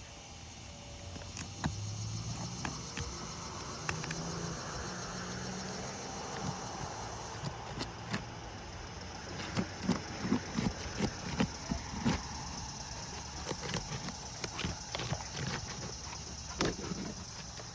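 Roof snake nail-removal tool being worked under asphalt shingles to free the nails: scraping and sharp metal taps, with a quick run of taps about halfway through. A steady hum runs underneath.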